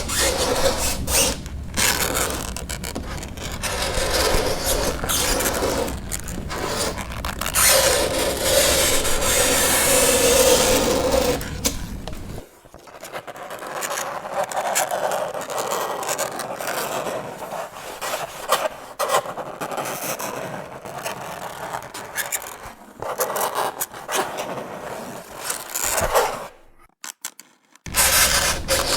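Fingernails scraping across a chalkboard in long strokes, with a screeching squeal in the first half. The scraping turns quieter and thinner after that, with a short break near the end.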